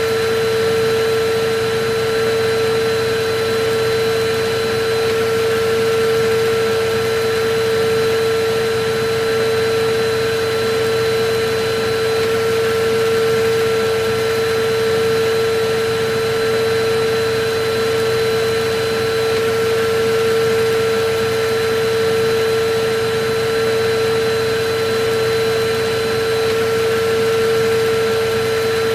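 Electric vacuum cleaner running steadily: a constant motor whine over an even rushing hiss, with a slight regular swell in loudness every several seconds.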